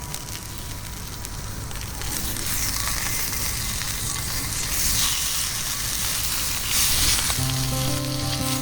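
Food sizzling in an iron frying pan over a wood fire, a steady frying hiss that swells in the middle. Background music comes in near the end.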